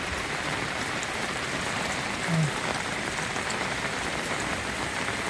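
Steady rain falling, an even hiss with no let-up, with one brief low hum about two seconds in.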